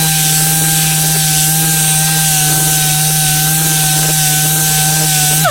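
Electric orbital palm sander running at steady speed, its pad edge rounding over a sharp edge on a block of wood, with a steady hum. Near the end it is switched off and the hum drops in pitch as the motor winds down.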